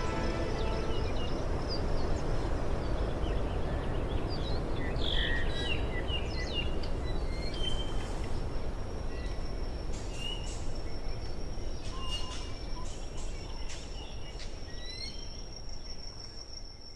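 Nature ambience: scattered short bird chirps over a steady rushing noise that slowly fades, with a continuous high insect trill that grows clearer toward the end.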